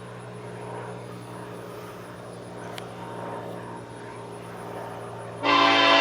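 An approaching train's locomotive rumbles steadily with a low drone. About five and a half seconds in, the train horn sounds: a sudden loud blast, the loudest thing here.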